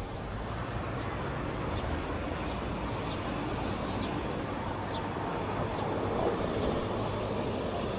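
Steady outdoor background noise with a low rumble, with a few faint short high chirps in the middle.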